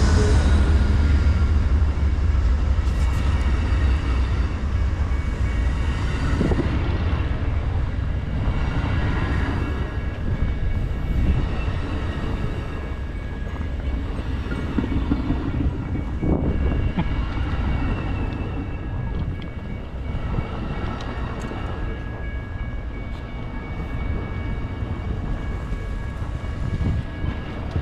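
Amtrak California Zephyr passenger train rolling into the station: a low rumble that slowly eases as the train slows, with a thin steady high squeal and occasional knocks from the wheels.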